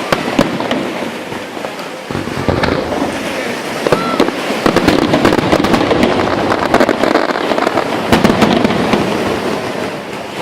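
Fireworks going off: a rapid, dense string of bangs and crackling that grows louder and busier about two seconds in.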